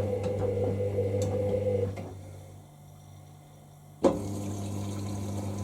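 Hoover SIX Inter@ct front-loading washing machine running early in a 60 °C mixed-fabrics wash: a steady mechanical hum that dies away about two seconds in and comes back abruptly about four seconds in.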